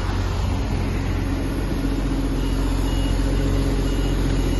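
Toyota GR Supra 3.0's turbocharged inline-six running steadily at low revs, with no revving, as the car rolls out.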